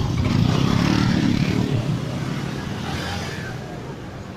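A motor vehicle passing close by on the road, its engine loud at first and then fading as it moves away.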